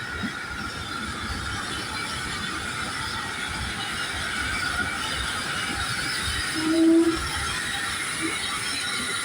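Goods train hauled by an SE&CR O1 steam locomotive running in on the rails, the wagons rolling with a steady rumble. A short, low squeal sounds once, about seven seconds in.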